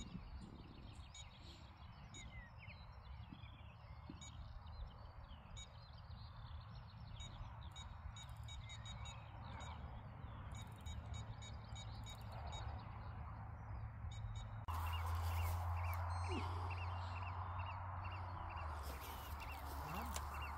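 Many short, high bird calls over a steady low hum. About three-quarters of the way through, a louder steady rushing noise comes in.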